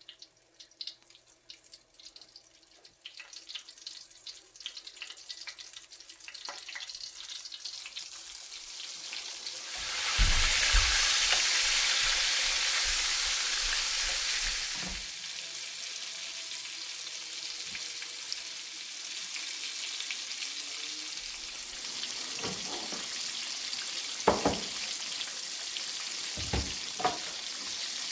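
Food frying in a hot pan. Faint crackling builds over the first several seconds, then a sudden loud surge of sizzling comes about ten seconds in and settles into a steady sizzle. A few sharp knocks of a utensil against the pan come near the end.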